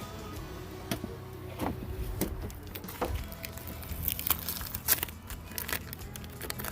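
Scattered sharp clicks and knocks of hands-on work, several in quick succession around the middle, over steady background music.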